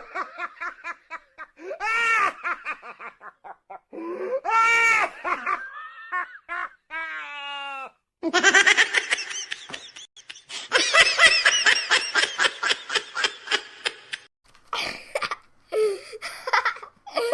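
A string of different recorded meme laugh sound effects, cut abruptly one after another. A brief gap about halfway is followed by a long run of rapid, pulsing laughter lasting several seconds, and shorter laughs come after it.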